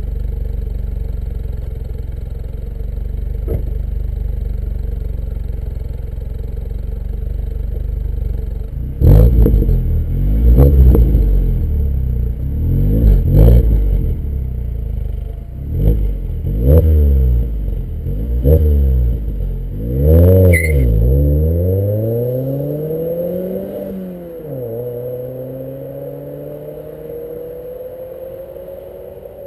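MINI Cooper R56's 1.6-litre four-cylinder engine through a Remus aftermarket exhaust: a steady low idle, then after several seconds a series of loud throttle blips, each rising and falling in pitch, some with sharp cracks. The car then accelerates away, its pitch climbing, dropping once at an upshift, and climbing again as it fades.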